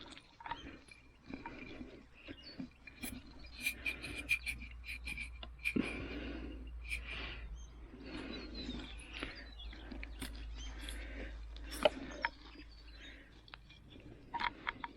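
Crackling, rustling and knocks of someone moving and rummaging through dry leaf litter and debris, with a sharp knock about twelve seconds in. A bird calls in a rapid series of high chirps from about two to seven seconds in.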